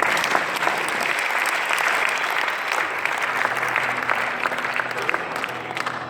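Audience applauding, a dense stretch of clapping that thins a little toward the end, with soft music coming in underneath about halfway through.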